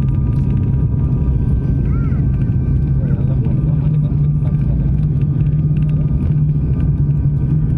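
Aircraft noise during the landing: a loud, steady low rumble with a strong hum and a few faint, steady high tones above it.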